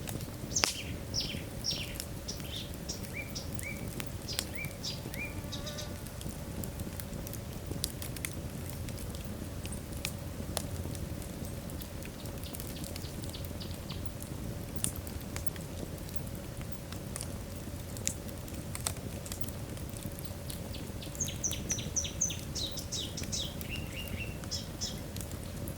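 Log fire in a fireplace, burning with a steady low rumble and frequent sharp wood crackles and pops. Two runs of short, high, falling squeaks come through, one in the first few seconds and one near the end.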